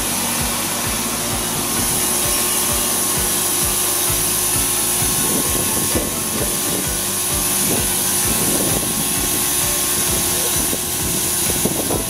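Taiwan Railways EMU700 electric multiple unit pulling into the station alongside the platform: a steady rolling and rushing noise with a regular clicking of wheels over rail joints, the clicks spacing out as the train slows.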